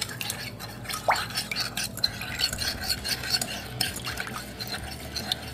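Metal spoon stirring in a glass measuring cup, quick irregular clinks and scrapes against the glass as sugar is dissolved into a liquid.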